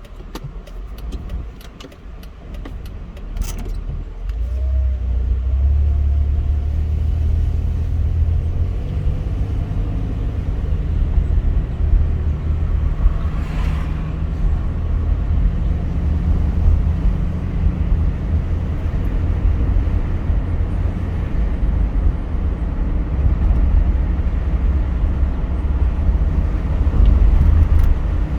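Car driving, a steady low engine and road rumble that builds after about four seconds as the car gets moving, following a few sharp clicks at the start.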